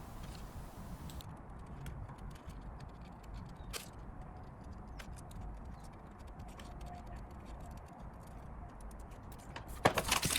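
Scissors snipping around a paper template, a run of faint, irregular small clicks, with a louder rustle of paper near the end.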